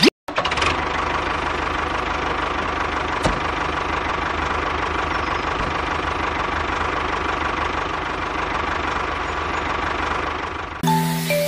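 Small engine of a DIY mini tractor running steadily at idle, with a single click about three seconds in. Music cuts in near the end.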